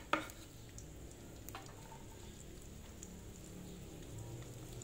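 Sliced shallots and garlic frying gently in hot oil in a wok: a faint sizzle with scattered small pops and crackles. A sharp click near the start.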